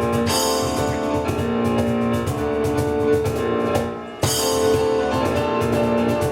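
Live instrumental band music: a drum kit keeps a busy beat under sustained melody notes. About four seconds in the music drops out for a moment, then the full band hits back in together.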